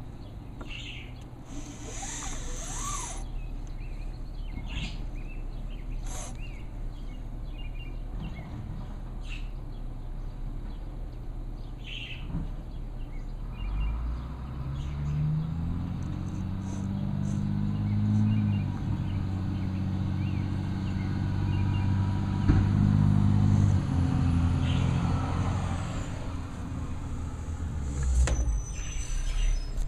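Garbage truck's diesel engine idling with a few light knocks, then revving up about halfway through and holding high for around ten seconds before easing back, the way the engine speeds up to drive the hydraulics. A short burst of hiss comes near the end.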